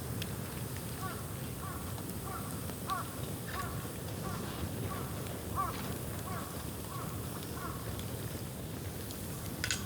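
A crow cawing over and over, about two calls a second for several seconds. Beneath it runs the steady low noise of a burning dead-bamboo bonfire, with a few sharp pops, the loudest near the end.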